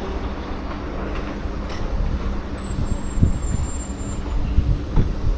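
Steady low rumble of a heavy engine running, with a couple of short knocks.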